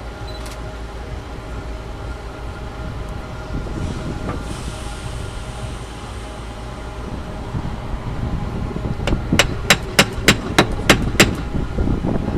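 Caulking mallet striking a caulking iron to set cotton into a wooden boat's plank seam: a quick run of about eight sharp taps, about three a second, near the end, over a steady background hum.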